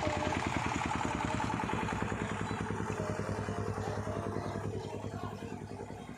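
A small engine running close by with a fast, even pulsing, growing quieter after about five seconds.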